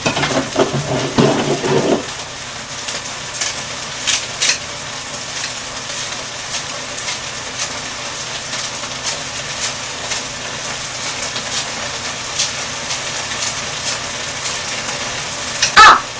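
Rice frying in a wok over a high gas flame: a steady sizzle, with a few light snips of kitchen scissors cutting dried laver over the pan.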